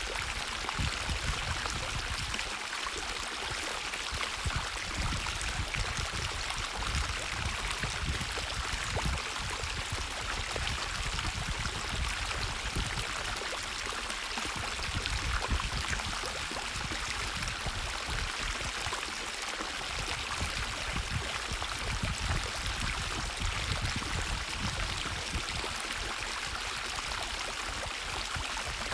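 Water rushing steadily in a stream, an even, unbroken hiss.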